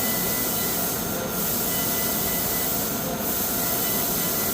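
Machinery running steadily: a loud hiss with a thin steady whine, easing slightly about every two seconds.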